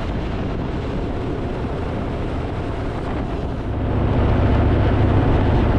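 Harley-Davidson motorcycle engine running at road speed with wind noise on the microphone; the engine gets louder and deeper about four seconds in.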